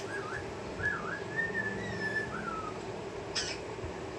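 Pet parrot whistling a wavering run of rising and falling notes, then giving a short sharp chirp about three seconds in, over a steady low hum.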